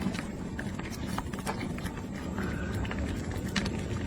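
Seafood congee bubbling in a clay pot: irregular pops and clicks over a low, steady rumble.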